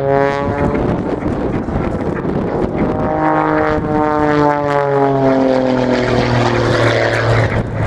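Pitts Special aerobatic biplane's piston engine and propeller at full power, its pitch sliding down as it flies past, once briefly near the start and again in a longer drop through the middle.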